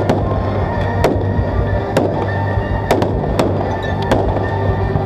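Aerial fireworks shells bursting with sharp bangs about once a second, over music playing steadily underneath.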